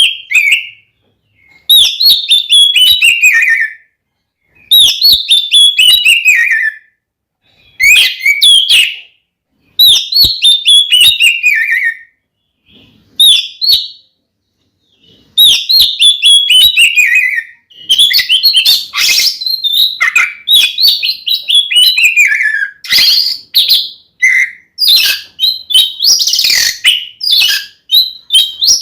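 Oriental magpie-robin (kacer) singing a loud fighting song: phrases of rapid notes that slide down in pitch, each about two seconds long with short pauses between them. About halfway through the song turns into a denser, more continuous and varied stream.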